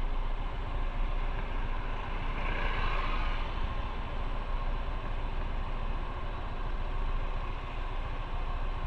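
Motorcycle riding on the road: steady engine rumble mixed with wind and road noise, with a brief swell about three seconds in.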